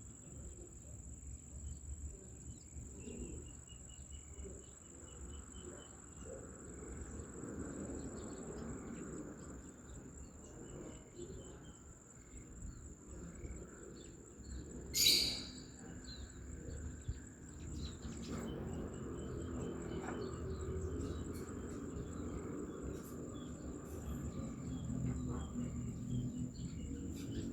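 Insects keep up a steady high-pitched drone while birds chirp in short runs of quick repeated notes. About halfway through there is one short, loud noise, the loudest moment, over a low rumbling background.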